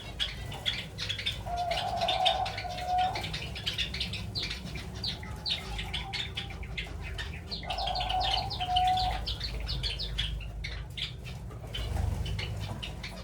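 A colony of java sparrows chirps rapidly and continuously. A dove coos twice, once about two seconds in and again about eight seconds in.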